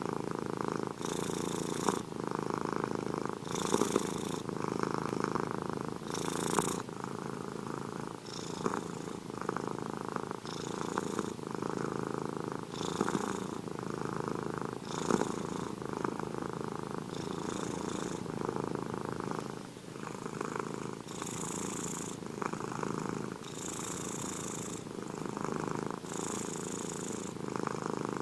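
Domestic cat purring steadily and close up, the purr swelling in a regular rhythm with each breath, about every two seconds.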